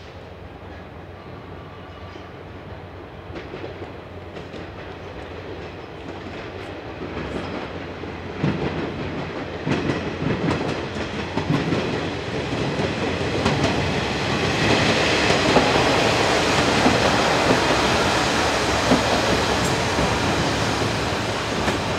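Steam train hauled by the D51 200 steam locomotive approaching and passing. It grows steadily louder, with a clatter of wheels and exhaust beats from about a third of the way in, and is loudest just past the middle.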